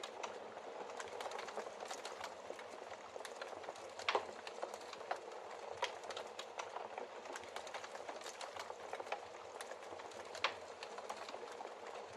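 Wood fire burning in a fireplace: a steady hiss of flames with constant irregular crackles of burning logs and a few louder pops, the strongest about four seconds in and near ten and a half seconds.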